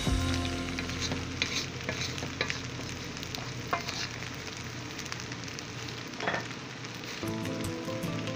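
Fried rice sizzling in a large metal wok while a spatula stirs and tosses it, with a few short, sharp scrapes of the spatula against the pan.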